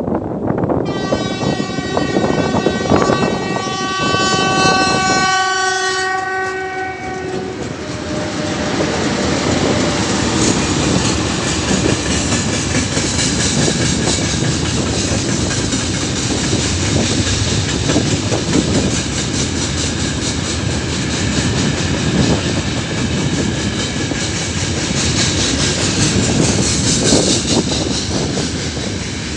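3ES5K 'Ermak' electric locomotive sounding its horn, one long pitched blast of about five seconds starting a second in. Then the freight train passes close by, its wheels clattering over the rail joints with a loud steady rumble.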